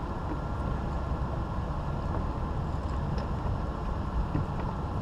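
Boat motor idling, a steady low rumble.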